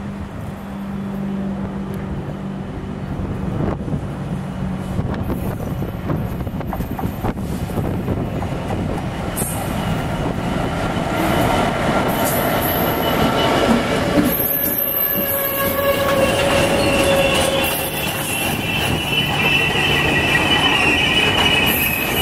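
A train passing on the railway, wheels squealing against the rails. A steady low drone at first gives way to several high squealing tones that grow louder from about ten seconds in.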